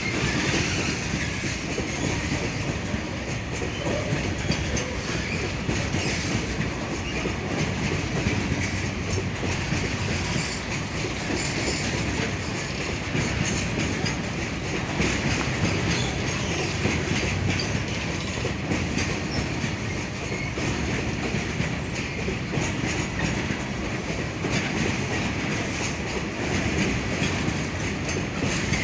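A freight train rolling past, its wagon wheels clattering steadily over the rail joints.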